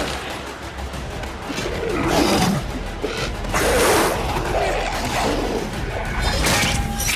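Action-film soundtrack: a score mixed with fight sound effects, including a sharp hit about six and a half seconds in.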